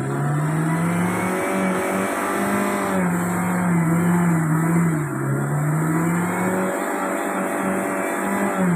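A car's engine held at high revs, its pitch wavering up and down, while its wheels spin and churn through deep mud.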